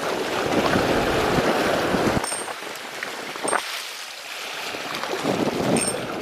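Strong wind buffeting the microphone over the wash of sea waves. The low rumble of the gusts drops away a couple of seconds in, leaving the hiss of water and wind.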